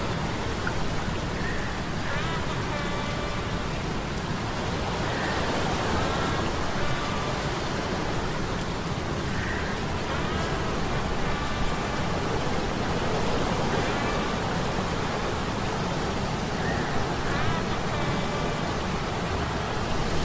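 Ambient sea storm effect of steady rain and surf noise, layered with humming metal gears that give faint high whines recurring every few seconds.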